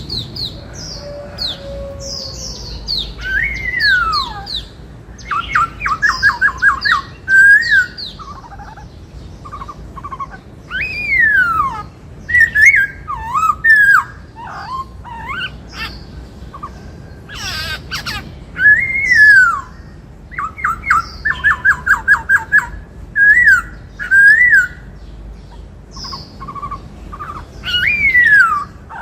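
Black-throated laughingthrush singing a loud, varied song: clear whistled notes that rise and fall, quick runs of rapidly repeated notes, and short high squeaky notes.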